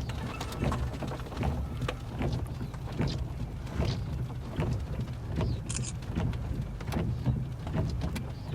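Rain hitting a vehicle in a tornadic thunderstorm: many irregular sharp taps over a steady low rumble, with a brief high tone about six seconds in.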